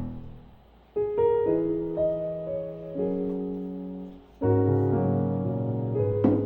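Background music: soft piano playing sustained chords and notes, fading briefly near the start before new chords enter about a second in.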